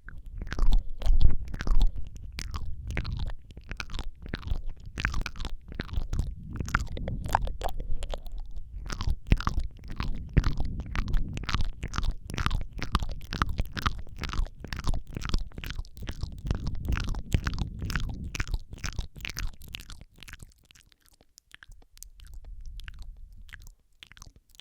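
ASMR mouth sounds close to a microphone: rapid wet clicks, smacks and sucking noises, several a second, over a low rumble of breath and handling. They thin out and turn faint about twenty seconds in.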